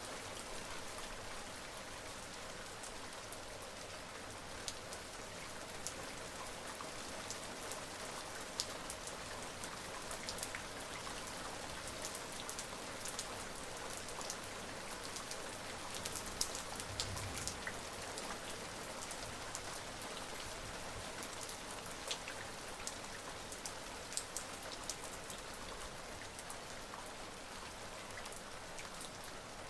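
Steady rain falling on a surface, an even hiss with many distinct drops tapping through it.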